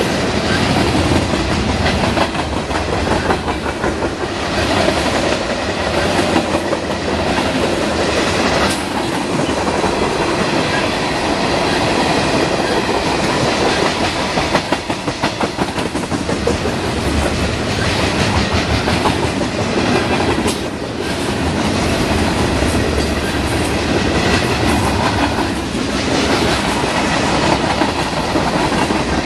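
A long freight train of tank cars and open hopper cars rolling past: a steady rumble of steel wheels on rail, with a rhythmic clickety-clack as the wheels cross rail joints, most distinct about halfway through.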